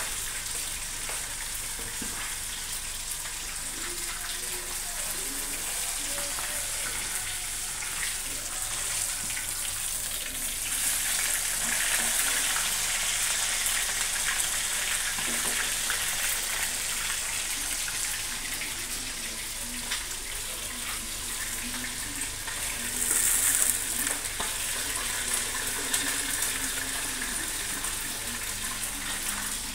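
Hot cooking oil sizzling steadily in a wok as fish fry, a continuous crackling hiss that swells louder about eleven seconds in and again briefly near twenty-three seconds.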